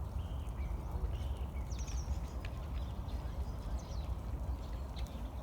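Small birds chirping briefly, high-pitched, about two seconds in, over a steady low outdoor rumble.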